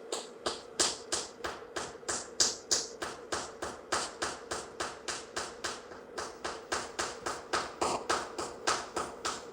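Booty clapping: buttocks slapping together skin on skin with the legs held together, about four sharp claps a second in a steady rhythm.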